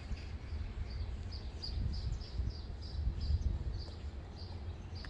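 A small bird chirping over and over, short high chirps about two or three a second, over an uneven low rumble.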